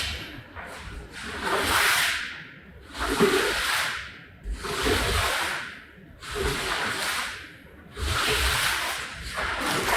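Repeated long swishing strokes across a wet, muddy rug, about one every second and a half, each rising and falling away.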